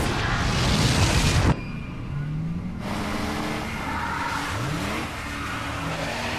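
A loud rushing noise that cuts off suddenly about a second and a half in, then a car engine revving as the car pulls away, its pitch rising twice as it accelerates through the gears.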